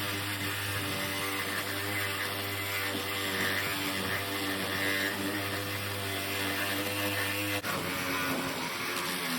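Reciprocating saw running steadily, cutting through a steel lug wrench. About seven and a half seconds in there is a sharp click and the saw's note drops lower.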